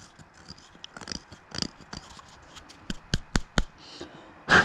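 Small hand-handling noises: scattered light clicks and taps, a quick run of sharp clicks about three seconds in, and a louder rustling scrape near the end.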